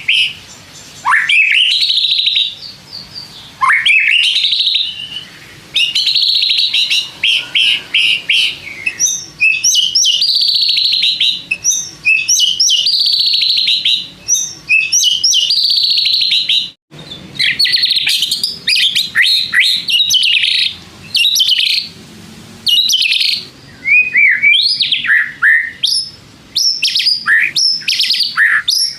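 White-rumped shama singing without pause: fast, varied phrases of whistles, sweeping notes and chattering trills, with a brief sudden break a little past the middle.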